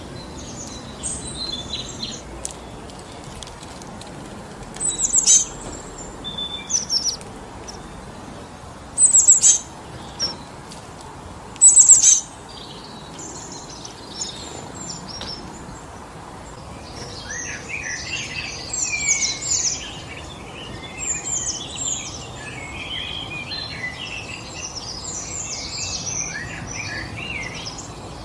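Wind blowing steadily through forest trees, with songbirds calling over it: a few loud, sharp high calls about 5, 9 and 12 seconds in, then a long stretch of busy twittering from about 17 seconds in until near the end.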